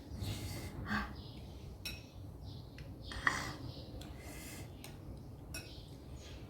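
Close-up eating of noodles: hissy mouth and slurping noises, with a few sharp clicks of cutlery against a bowl.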